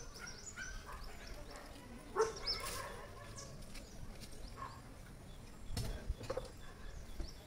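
Faint, scattered short bird chirps, with a soft low bump about six seconds in.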